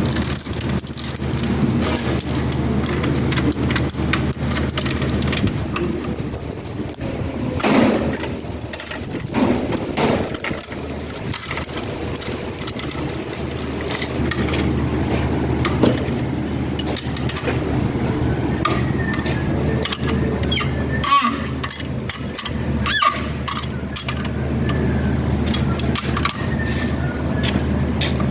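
Workshop sounds: a steady low machine hum with scattered metal clinks and a few louder knocks of tools on metal parts.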